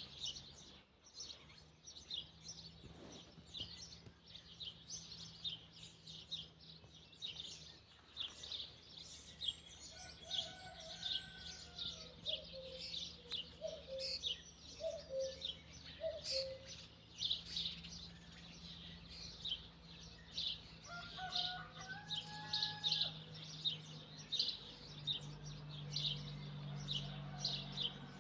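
Small birds chirping steadily, many short high chirps overlapping, with a few lower whistled notes from another bird partway through. A faint steady low hum runs underneath.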